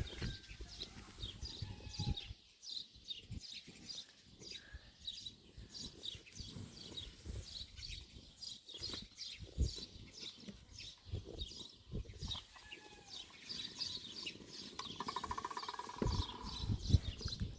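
Small birds chirping over and over, with scattered knocks and thumps. A short, buzzy animal call comes about fifteen seconds in.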